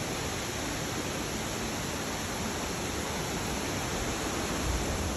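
Steady rush of wind noise on the microphone from riding a motorcycle, with a brief low buffet near the end.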